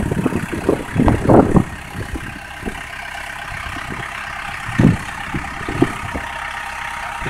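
An engine idling steadily, with a few short knocks over it, the loudest about a second in and about five seconds in.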